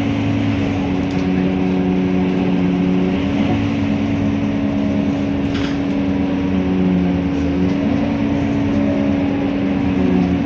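Scania K230UB city bus running steadily, with a constant droning hum.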